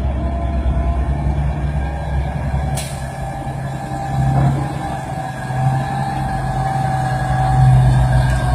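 Heavy truck engine running steadily, a low continuous drone, with one brief sharp click about three seconds in.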